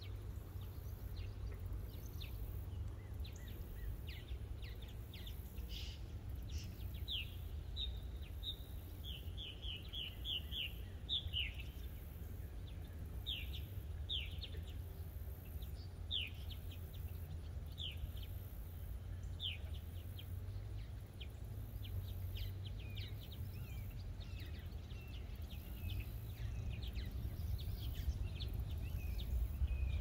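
Small birds chirping: a quick run of short falling notes about a third of the way in, then single notes every couple of seconds, over a steady low rumble.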